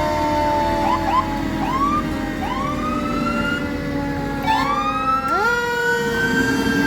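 Several fire truck sirens sounding at once in a parade. Their pitches repeatedly sweep up and level off, one wind-up about four and a half seconds in, while others slowly fall, so the wails overlap.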